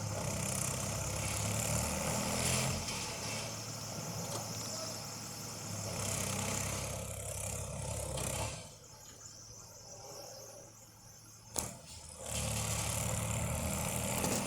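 Tractor engine running steadily. Its sound drops away for about three and a half seconds past the middle, with one sharp click, then comes back just as strong.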